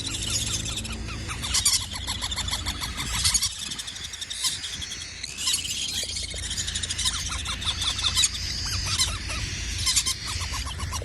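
Cockatiel chicks calling in runs of rapid, raspy, squealing notes, in bouts with short gaps, over a low steady hum.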